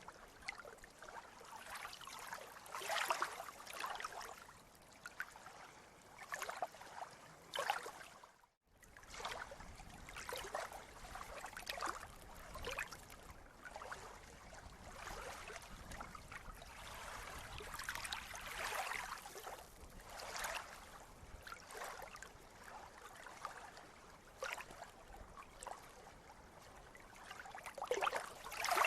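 Sea water lapping and splashing in irregular small surges. The sound cuts out for a moment about eight seconds in, then resumes.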